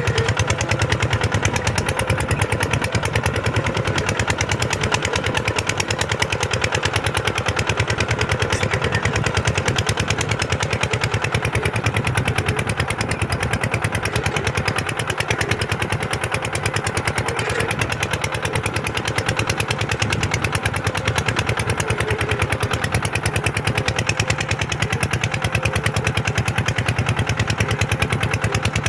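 Kubota tractor's diesel engine running steadily, with a rapid, even beat that holds without change.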